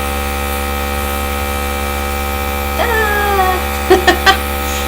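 Steady electric hum of a small hobby air gun's motor running continuously. About three seconds in comes a short falling vocal 'ooh', then three quick short voiced sounds near the end.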